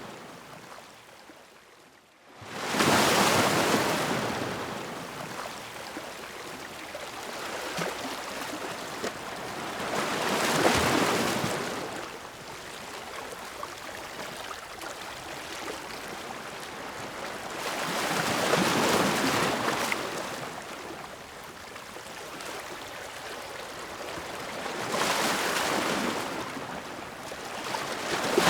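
Ocean surf: waves break in slow swells about every seven to eight seconds, with a steady wash of water between them. A brief, almost silent lull comes just before the first wave.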